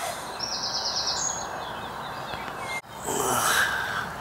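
Songbirds singing outdoors: a fast trill of high repeated notes about half a second in, over a steady faint hiss. Near the end the birdsong stops and a louder rushing noise lasts about a second.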